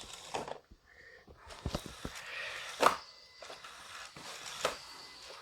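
A few light, separate knocks and clicks over faint room noise, like small objects being handled.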